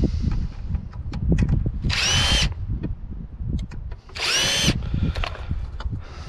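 Power drill run in two short bursts of about half a second each, about two and four seconds in, its motor whine rising in pitch as it spins up, backing screws out of a water cooler's casing. Between the bursts there is low clatter and knocking of the parts being handled.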